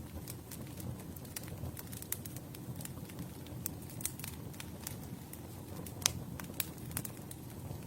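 Campfire burning with a steady low rumble and irregular sharp crackles and pops, the loudest about six seconds in.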